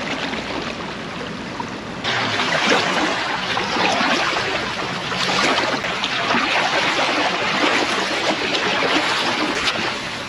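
Water lapping at the shoreline: a steady rush with small irregular splashes, louder from about two seconds in.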